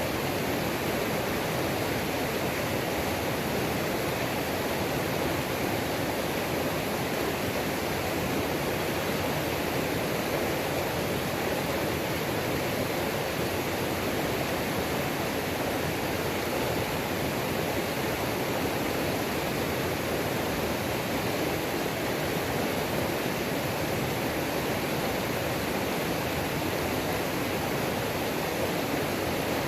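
Waterfall on a creek: water rushing steadily, an even roar that does not change.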